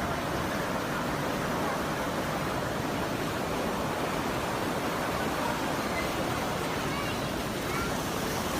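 A river in flood rushing past: a steady, unbroken wash of fast-moving water.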